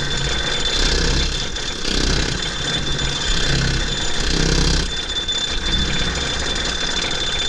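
Wooden roller coaster train climbing the chain lift hill, the lift mechanism running with a steady high-pitched whine over a low, uneven rumble and rattle. The rattle grows louder for a few seconds early on.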